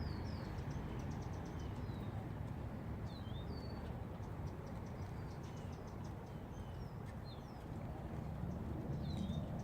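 Small birds chirping: scattered short, down-slurred chirps every second or so, over a low steady rumble.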